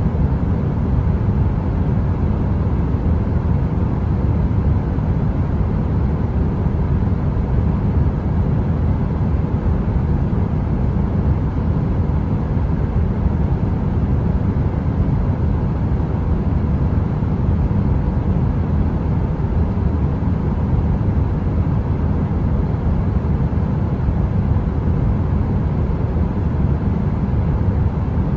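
Heater running steadily: a constant deep, rumbling noise, heaviest in the low end, with a faint steady hum over it.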